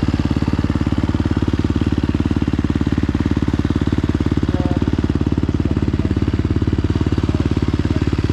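Motocross bike engine idling steadily with an even, fast firing pulse.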